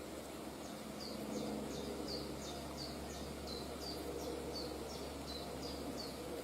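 A bird calling a fast series of short, high, falling notes, about three a second, over a steady background hum.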